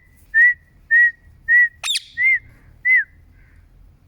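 A pet parrot whistling a run of short, identical notes, each rising then falling, about two a second, with one sharp sweeping squeak about two seconds in. The whistling stops about three seconds in.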